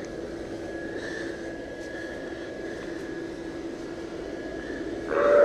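Electric blower fan of an inflatable haunted house running with a steady hum. Near the end, a louder electronic sound effect with a held tone starts from the inflatable's motion-activated sound unit.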